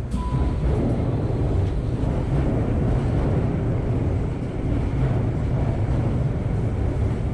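Steady low rumble of a Tokyu Oimachi Line commuter train standing at a station platform, with a short high beep near the start.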